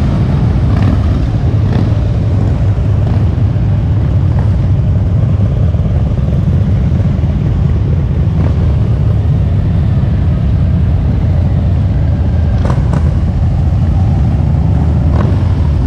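Motorcycle engines giving a loud, steady low rumble that goes on without a break.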